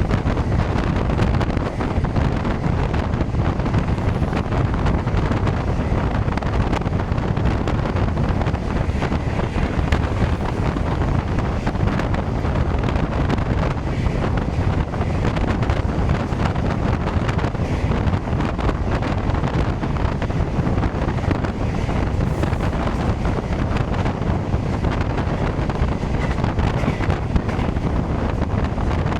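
Wind buffeting the microphone, a steady low roar.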